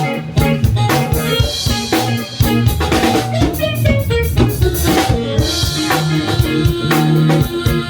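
A band playing a pop-rock song: a drum kit keeping a steady beat over bass and guitar.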